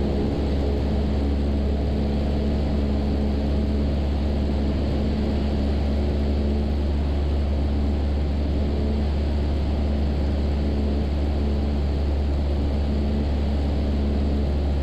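Cessna 172's piston engine and propeller droning steadily in cruise, heard from inside the cockpit.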